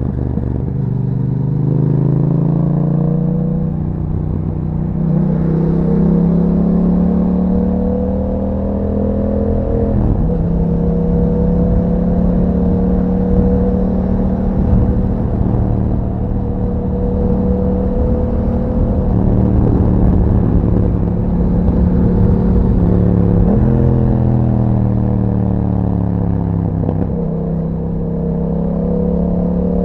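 2021 Yamaha MT-07's crossplane parallel-twin engine running through an Akrapovic exhaust under way, its pitch climbing slowly as it pulls. Its note changes suddenly at gear changes about a third of the way through and twice near the end.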